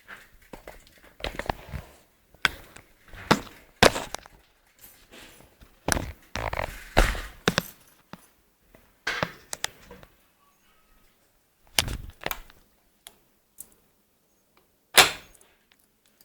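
Irregular knocks, clunks and rattles of things being handled, thick for the first ten seconds, then a few scattered knocks and one loud sharp knock near the end.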